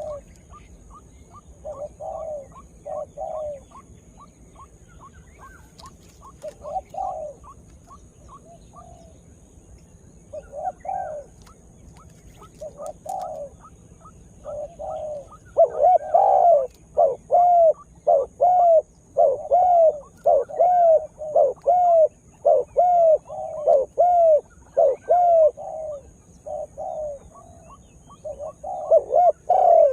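Spotted dove cooing. Scattered coo phrases come first, then from about halfway a fast, louder run of coos at roughly two a second.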